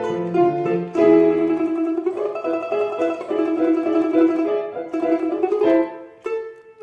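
A plucked string instrument and piano accompaniment play the closing bars of a lively children's piece. It ends on a final chord near the end that rings away.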